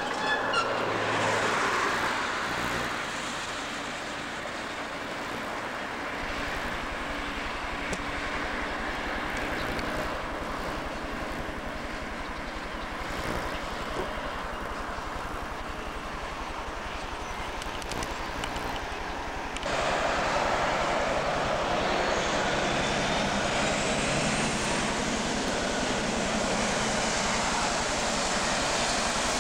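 Freight train rolling past, a steady rushing noise of the cars on the rails. About twenty seconds in the sound jumps suddenly louder and brighter.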